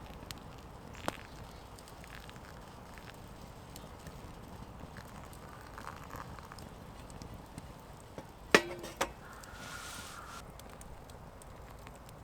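A few sharp knocks over a quiet background: a single click about a second in, then two louder knocks close together about two-thirds of the way through, followed by a brief scraping rustle.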